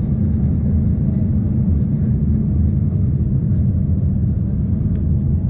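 Steady, loud cabin rumble inside an Embraer ERJ-140 airliner: its rear-mounted Rolls-Royce AE 3007 turbofans and the airflow make an even, deep drone during the arrival into the airport.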